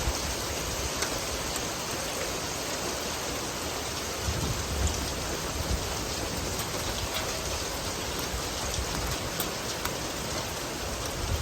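Steady rain falling, an even hiss with scattered faint taps of individual drops.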